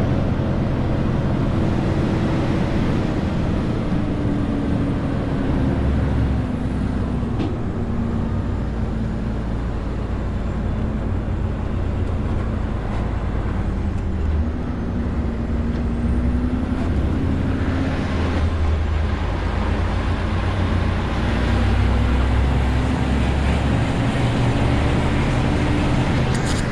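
Renault T520 truck's 13-litre straight-six diesel engine running under load, its revs sinking and rising slowly several times.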